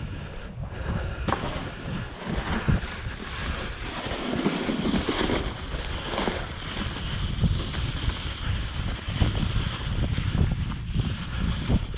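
Wind buffeting the microphone over irregular scraping and crunching of snow being cleared by hand.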